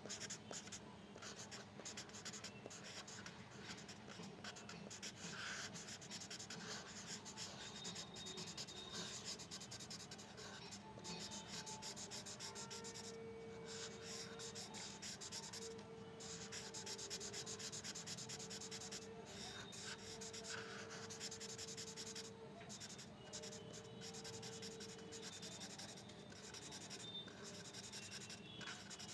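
A drawing tool scratching across paper in quick strokes, with brief pauses between strokes as the letters of a dog drawing are sketched.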